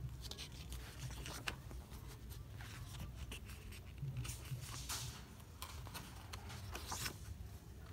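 Pages of a photo book being handled and turned, paper rustling and sliding in irregular swishes, with the loudest page flips about five and seven seconds in.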